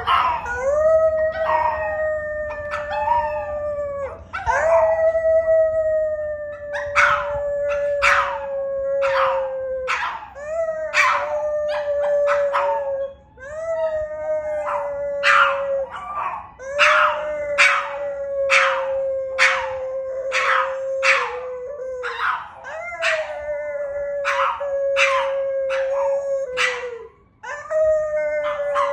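A dog howling in long drawn-out notes, each held for several seconds and sliding slightly down in pitch before it breaks off and starts again. From about seven seconds in, short sharp yips or barks come about once or twice a second over the howls.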